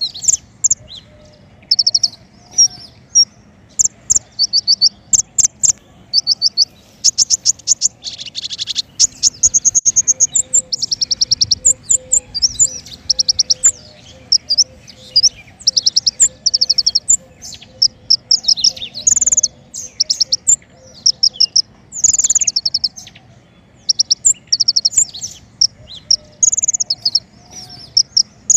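King konin songbird calling in short, rapid, high-pitched trills of evenly spaced notes, repeated again and again with brief gaps and some overlapping, the kind of song played as a lure and tutor call for songbirds.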